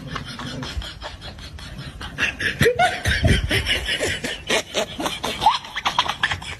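A person laughing in a run of short bursts, louder from about two seconds in.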